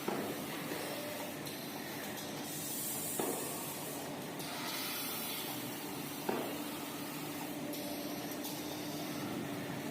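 Automatic maxi roll paper band saw cutting machine running with a steady hum and hiss, with a sharp clunk about every three seconds, near the start, about three seconds in and about six seconds in.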